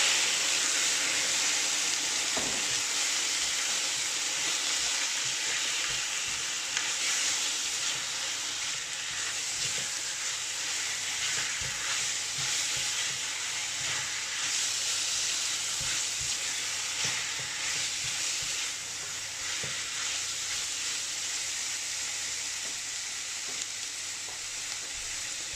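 Raw chicken pieces sizzling in hot oil in a stainless steel wok, stirred now and then with a silicone spatula that gives occasional soft knocks. The sizzle is loudest just after the chicken goes in and slowly eases.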